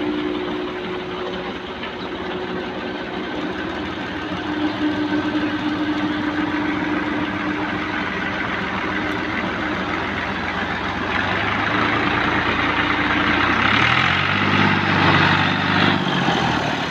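Farm tractor's diesel engine running hard under load while pulling in mud, with a heavier, deeper engine note swelling in about fourteen seconds in and dropping away near the end.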